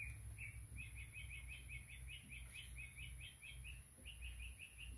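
A songbird singing: short, repeated chirps, slow at first, then quickening to several a second about a second in, with a brief break near the end. Under it runs a low, steady background rumble.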